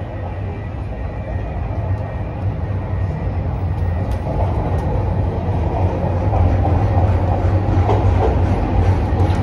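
CTA rapid transit train running along the track, a steady rolling noise that grows louder about halfway through.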